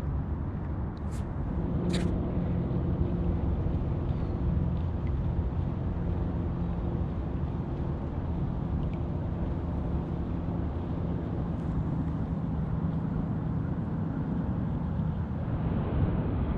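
Distant engine droning steadily at one pitch over a low rumble, fading out near the end, with a couple of sharp clicks about a second and two seconds in.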